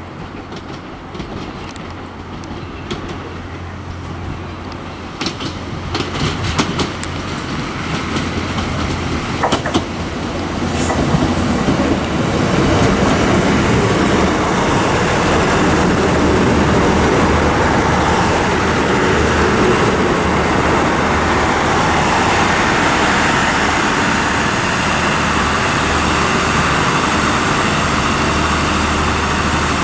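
Northern Ireland Railways Class 3000 diesel multiple unit arriving. It grows louder over the first twelve seconds, with a run of sharp clicks from the wheels over the points, then becomes a loud, steady engine and rolling noise as it runs into the platform.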